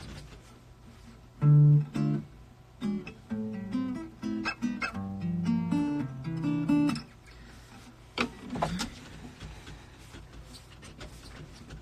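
Acoustic guitar being picked: a short run of plucked notes and chords for about five seconds, then it stops. Two brief sharp sounds follow about a second later.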